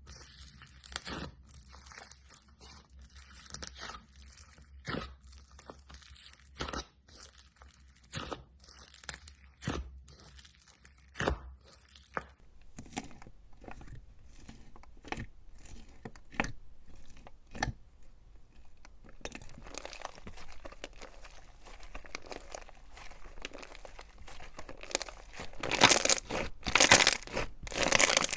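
Slime being squeezed and poked by hand, giving a string of sharp crackling clicks and pops. The crackling becomes denser and louder near the end.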